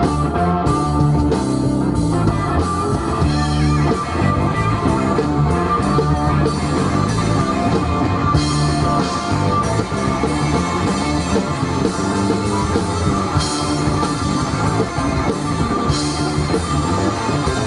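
Rock music played by a band: guitar with bass and a drum kit, an instrumental stretch without singing.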